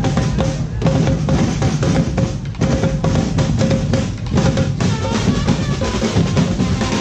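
Drum band playing a fast, dense rhythm on bass and snare drums, with a short note repeated over the beat.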